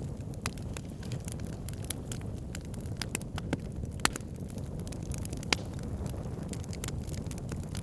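Wood fire burning in a fireplace: a steady low rumble of the flames with irregular sharp crackles and pops, the loudest about four and five and a half seconds in.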